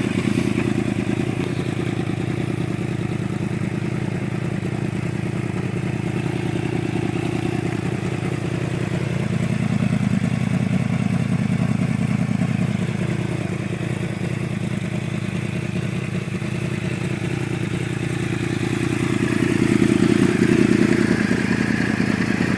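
Yamaha R1 sport bike's inline-four engine running at idle, steady, with the revs rising a little twice, about ten and about twenty seconds in.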